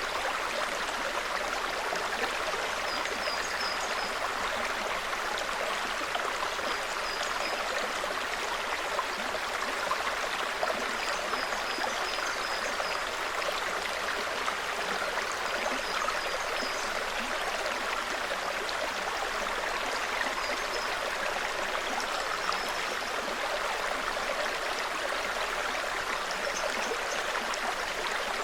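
Small forest stream babbling steadily over stones. A bird's short, high chirps come in brief runs every few seconds.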